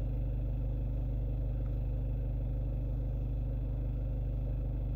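Ford Focus MK2 engine idling, heard from inside the cabin as a steady low hum.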